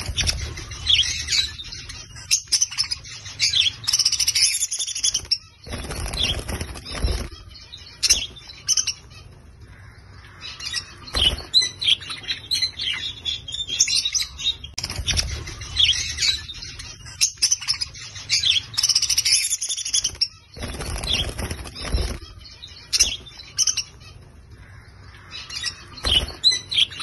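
Budgerigars chirping and chattering in quick, high twitters, with occasional low rustling thuds among them.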